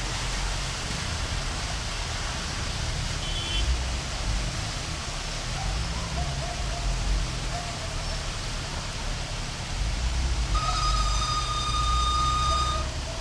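Heavy rain and engine rumble from a traffic jam on a flooded street. Near the end, a car horn sounds for about two seconds.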